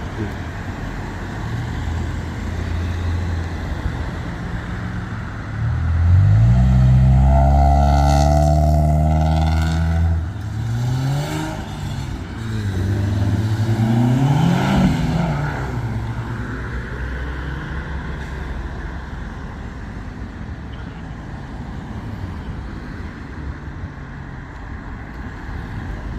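Modified car's engine revved hard about six seconds in and held at high revs for about four seconds, then revved up and down several times before dying away to a steady lower engine sound.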